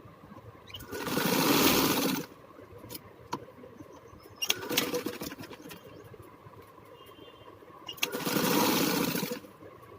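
Electric sewing machine stitching in two short runs of about a second each, one near the start and one near the end. Between them there is a briefer patch of clicks and rustling.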